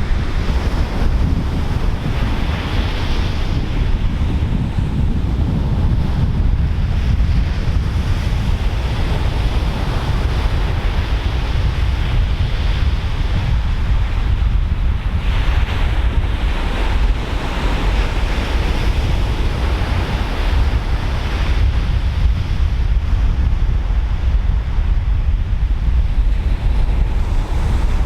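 Pacific Ocean surf breaking and washing ashore in repeated swells, with steady wind buffeting the microphone as a constant low rumble.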